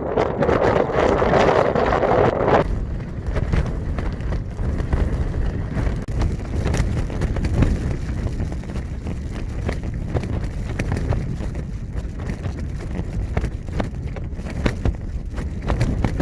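Storm wind buffeting the microphone, with rain striking in scattered sharp ticks. A louder, higher hiss of wind-driven rain stops abruptly about two and a half seconds in, leaving the low wind noise.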